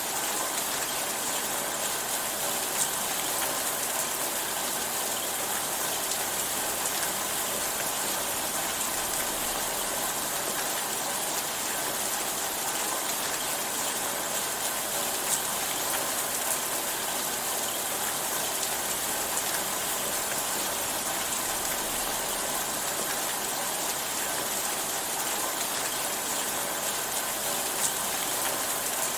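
Steady rainfall: an even hiss of rain with a few louder single drop ticks scattered through it.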